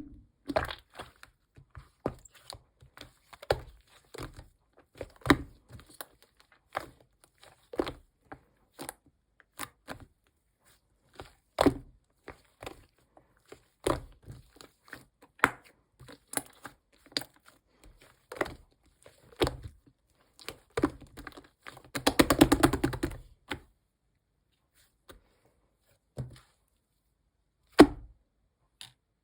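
White slime being mixed and pressed by hand, giving irregular sticky pops and clicks of trapped air. About three quarters of the way through comes a run of quick crackling pops lasting about a second and a half.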